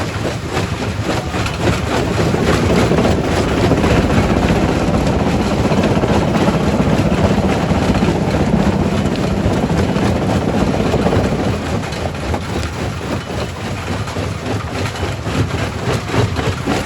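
Quarry primary rock crusher running, with rock clattering and breaking inside it over a steady heavy machinery rumble. The crushing gets louder about two seconds in and eases off again after about eleven seconds.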